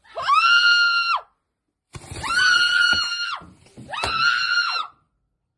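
A person screaming in panic three times, each a long, high scream of about a second that rises at the start and falls away at the end.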